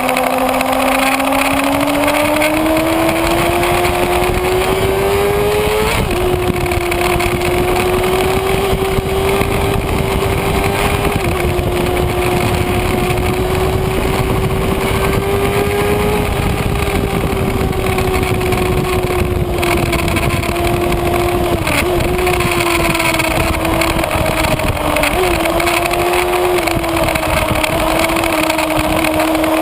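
Kawasaki Ninja ZX-6R inline-four engine heard from on board at high revs, over a low rush of wind noise. The pitch climbs steadily under acceleration for about six seconds, drops once at an upshift, then holds fairly steady with a few brief dips to the end.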